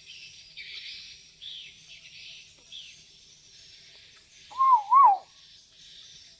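Talking pet bird giving soft high chirps, then about four and a half seconds in a loud whistled call of two quick rising-and-falling notes.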